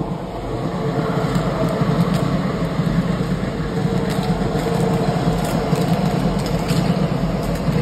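Keisei Line electric commuter train running at speed: a steady rumble of wheels on rail with a faint steady hum and scattered sharp clicks. The rumble grows louder in the first couple of seconds as another train runs alongside.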